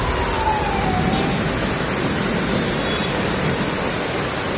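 Heavy rain pouring steadily onto a flooded road, with a vehicle siren falling in pitch over about the first second.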